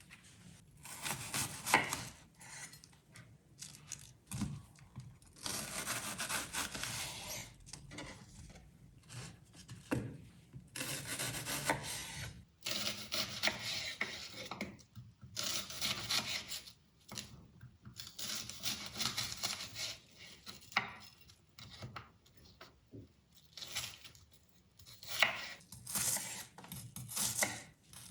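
Kitchen food-prep sounds: irregular scraping and rubbing strokes against a wooden board, with a few sharp knocks between them.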